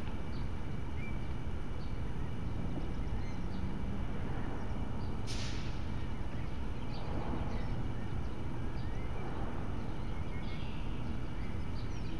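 Birds chirping in short scattered calls over a steady low rumble, with a brief hiss about five seconds in.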